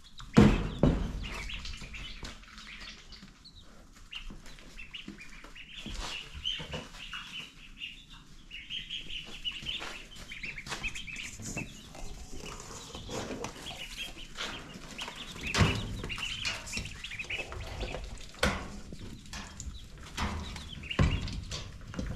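Chickens clucking and chicks peeping, over scattered knocks and handling noises, with a loud thump just after the start and heavier knocks from about fifteen seconds in.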